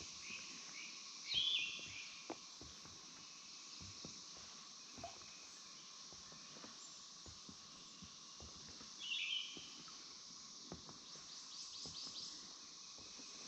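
A bird calls twice, a short bright call about a second and a half in and again about nine seconds in, over a steady high background hiss. Faint soft thuds of footsteps on a wooden boardwalk run under it.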